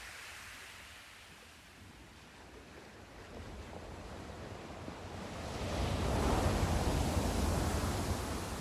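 Sea surf: after a lull, a wave builds and breaks with a rush of water about six seconds in, then starts to wash back.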